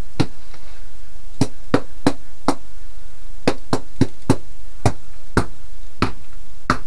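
A tool jabbed into the plywood floor of an RV bathroom, striking about a dozen times in irregular runs of two to four. Each strike is a sharp knock, probing the floor for rot.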